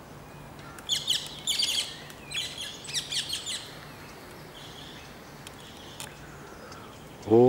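Small birds chirping in several quick bursts of high, rapid notes during the first half, then only faint outdoor background. At the very end a loud, low, held tone begins, gliding up in pitch.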